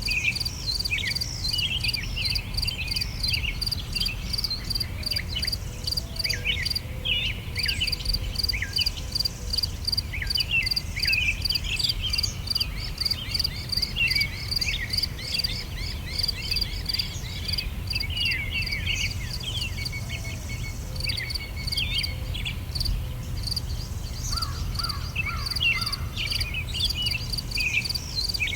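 Summer daytime outdoor ambience: several songbirds chirping and twittering, over a steady, rapid high-pitched pulsing chirp of crickets or similar insects. A low, steady rumble runs underneath.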